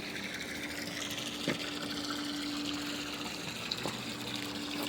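Steady rush of running water with a steady low hum under it.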